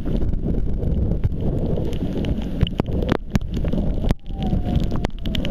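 Storm wind buffeting an action camera's microphone with water sloshing around it, and a few sharp clicks scattered through. The sound drops out briefly about four seconds in.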